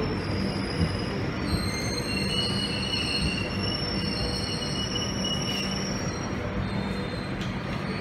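Electric suburban train moving slowly along the platform: a steady rumble of the carriages rolling past, with high-pitched metallic squeals setting in about a second and a half in and holding on.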